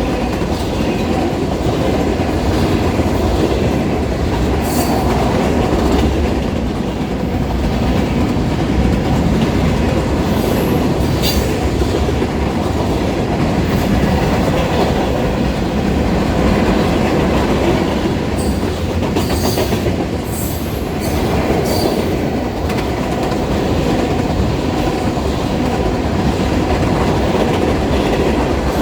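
Freight train cars rolling past, a steady loud rumble and clatter of steel wheels on rail. Brief high-pitched squeals or clanks come from the wheels a few times: about five seconds in, about eleven seconds in, and several more between nineteen and twenty-two seconds.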